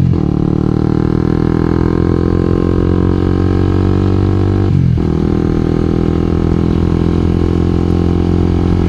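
2012 Honda CBR250R's single-cylinder engine running steadily under way, its note briefly breaking right at the start and again about five seconds in, as at a gear change.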